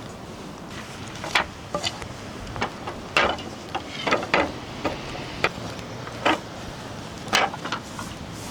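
Irregular clicks and knocks, about a dozen, from camping gear and breakfast things being handled, over a steady rushing background.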